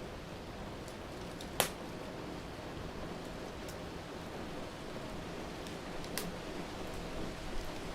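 Steady hiss of rain with a wood fire crackling in a fireplace: one sharp pop about one and a half seconds in, another near six seconds, and a few fainter ticks.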